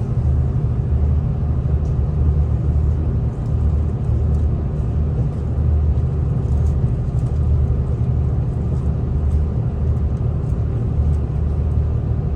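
Steady low rumble of a V/Line diesel train running along the track, heard from inside the carriage, with a few faint light ticks and rattles.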